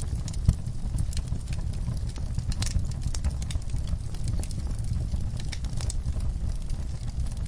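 Wood fire burning in a fireplace: a steady low rumble with scattered crackles and pops, one sharper pop about half a second in.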